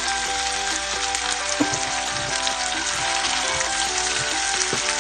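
Garlic, onion and ginger sizzling steadily as they sauté in hot oil, with a few knocks of a wooden spatula stirring them in the pot. Background music plays underneath.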